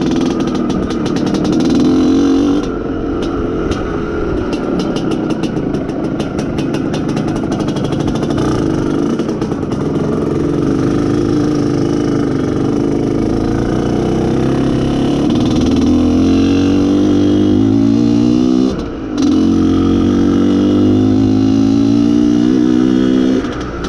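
Izh Planeta Sport motorcycle's single-cylinder two-stroke engine pulling steadily in second gear while being run in, revs rising and falling a little; about nineteen seconds in the throttle shuts briefly and the engine picks up again.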